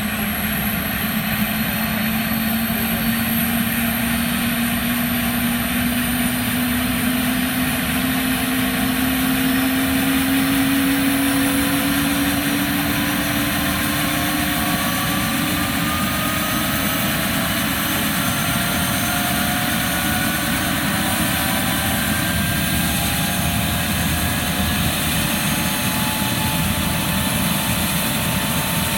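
Helicopter engine running up: a loud, steady mechanical noise with several whining tones slowly rising in pitch.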